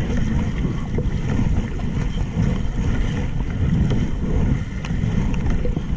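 Wind rumbling on the microphone on open water, a steady low rumble that rises and falls slightly.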